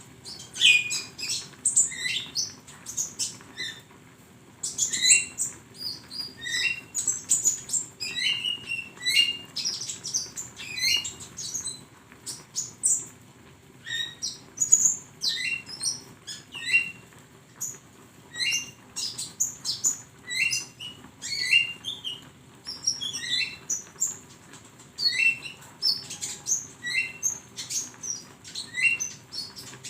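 Konin bird singing: a fast chatter of short high chirps and clicks, with a short hooked note repeated about once a second.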